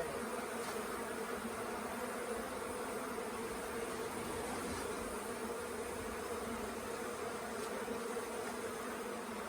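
A swarm of honey bees buzzing around a nuc box: a steady, continuous hum of many wings, not yet settled.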